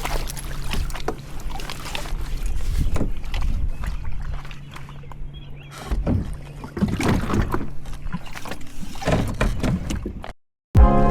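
A kayak under way on a lake: water swishing and splashing against the hull at irregular moments over a steady low hum. It cuts off suddenly near the end.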